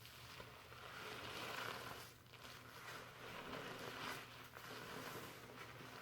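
Fingers working shampoo lather through hair: a crackly, bubbly rustling of the foam in slow rubbing strokes that swell and ease about every two seconds.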